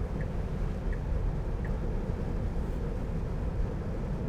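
Steady road and tyre rumble inside the cabin of a 2020 Tesla Model 3, an electric car with no engine note, driving on wet roads in the rain. Three faint ticks sound about three quarters of a second apart in the first couple of seconds.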